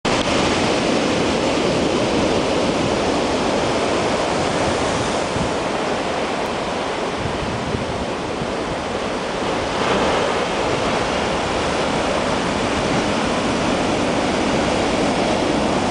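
Rough typhoon surf breaking on the shore, a continuous wash of waves mixed with wind. The noise swells briefly about ten seconds in.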